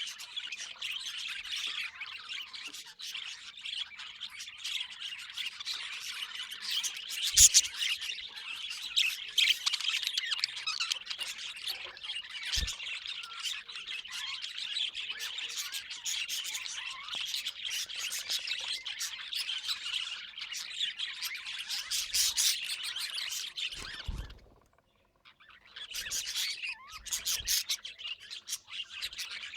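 A flock of budgerigars chattering together: a dense, continuous mix of warbling chirps and sharper squawks. It drops out for about a second near the end, and a couple of brief low knocks stand out.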